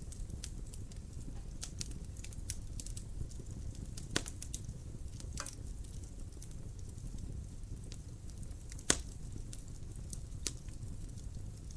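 Wood fire in a fireplace crackling: a low steady rumble of the flames with scattered sharp pops and snaps, the loudest about four and nine seconds in.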